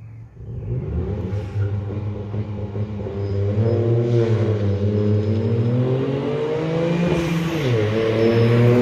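Ford Fiesta MK8 ST-Line exhaust note as the engine runs under throttle. The pitch rises and falls gently, drops sharply near the end, then climbs again.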